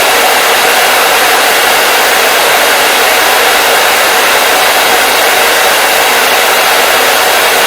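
Hair dryer running continuously, a steady, loud rushing hiss of blown air with a faint motor hum under it.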